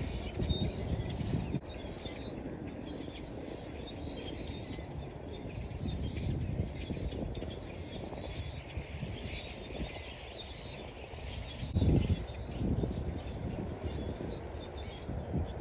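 A flock of small birds chirping sporadically over a steady low background rumble, with a brief louder low thud or gust near the end.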